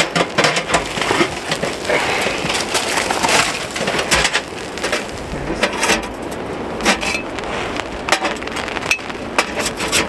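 Irregular crunches, clicks and knocks of camp gear being handled and moved about in wet snow, over a steady rushing background.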